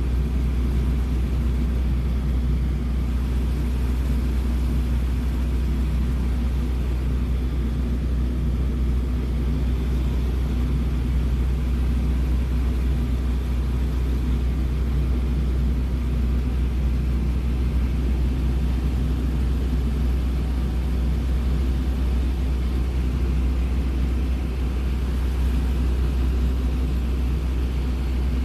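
Small airplane's engine and propeller droning steadily, heard from inside the cabin, with a deep low hum and an even tone throughout.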